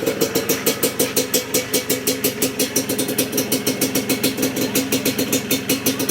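Yamaha DT 125's stock single-cylinder two-stroke engine idling steadily, with an even pulsing beat.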